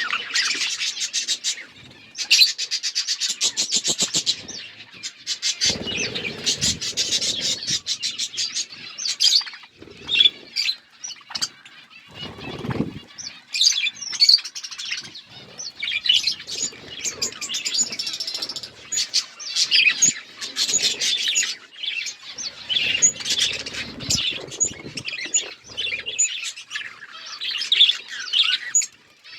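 A flock of budgerigars chirping and chattering without a break, many rapid high chirps and trills overlapping.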